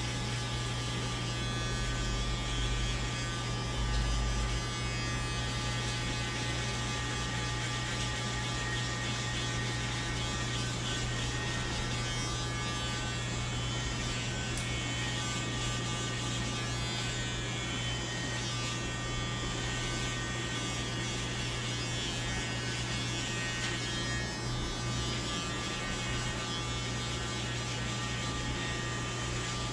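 Electric hair clippers buzzing steadily while cutting hair for a fade.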